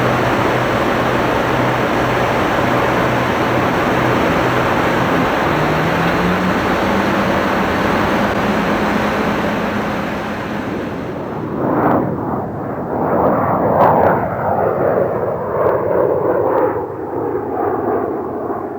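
Sabreliner business jet's engines running loud as the jet flies past, with a steady engine tone that rises in pitch about six seconds in. About eleven seconds in, the high hiss falls away and the sound becomes an uneven, surging rumble.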